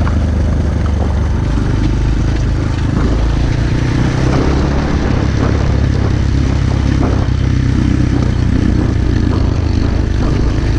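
Pit bike's small single-cylinder engine running steadily at a fairly even pitch while riding, with a few light clatters from the bike.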